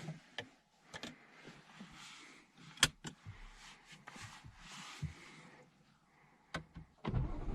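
Handling sounds inside a car: a series of sharp clicks and knocks with rustling between them, like doors, seatbelt and keys, the loudest click about three seconds in. A deep rumble starts just before the end.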